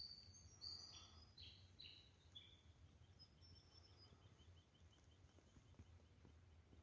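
Faint birdsong: a few clear whistled notes stepping down in pitch, then a fast run of short repeated chirps, with a low rumble beneath.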